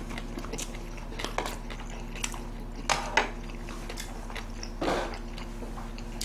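People chewing and biting food, with scattered short clicks and knocks. The sharpest come about three seconds in and again near five seconds.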